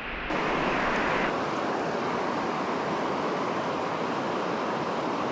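Small mountain creek rushing over falls and rocks: a steady, even rush of water.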